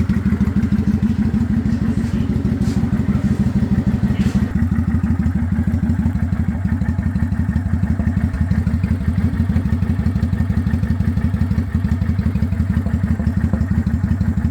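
Kawasaki Vulcan 900's V-twin engine running steadily with an even, unchanging pulse.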